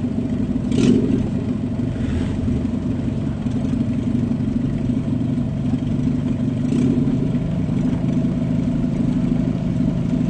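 Car engine idling steadily, with a brief louder burst about a second in.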